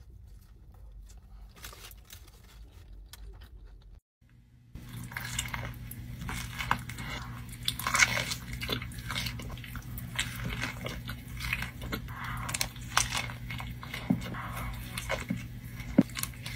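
Close-miked eating of a burger: bites and chewing with crunching and wet mouth clicks. It is faint at first, then much louder after a brief cut about four seconds in, with a steady low hum underneath.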